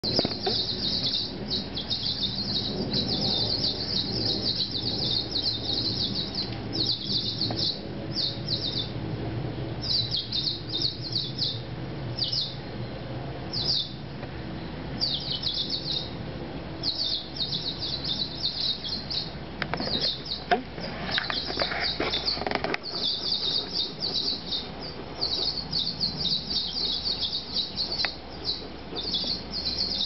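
Small songbirds chirping in fast, high-pitched runs of short notes, nearly continuous with brief pauses.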